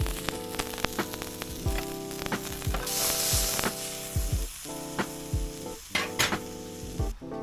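Food sizzling as it fries in a pan over a campfire, with a louder burst of sizzling about three seconds in. Background music with chords and a steady beat plays alongside.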